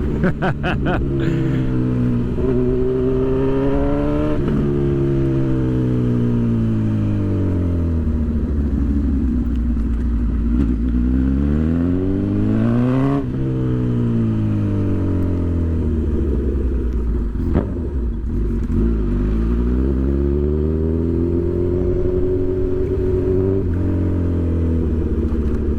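Honda CB1000 inline-four motorcycle engine accelerating through the gears. The pitch climbs and drops with upshifts about two and four seconds in, falls as the throttle eases, climbs hard again around 11–13 s, falls once more, then builds again.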